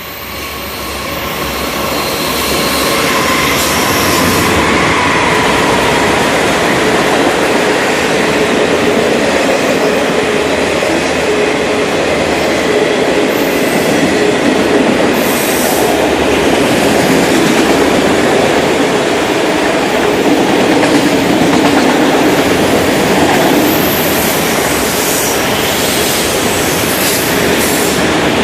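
Norfolk Southern autorack freight train rolling past: steady wheel-on-rail rumble and clatter of the passing cars, with faint squealing tones from the wheels. The sound swells over the first few seconds as the train draws close, then holds steady.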